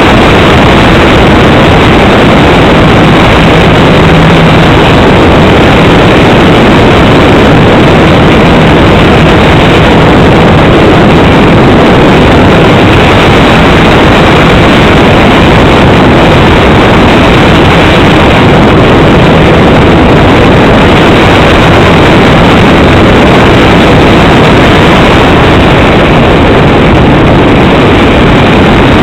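Cessna 310's engine and propeller noise heard from on board, loud and steady and overloading the recording. A faint low hum shows in the first few seconds.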